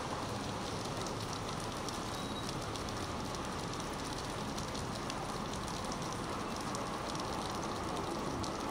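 Steady rain falling on a car roof and the camera housing: an even hiss full of small drop ticks.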